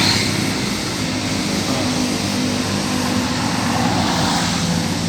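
A steady motor drone with a low hum, typical of an engine running or passing.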